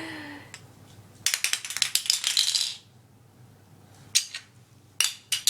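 Small plastic toy pieces rattling and clattering in bursts: a long rattling burst about a second in, then two short clatters near the end.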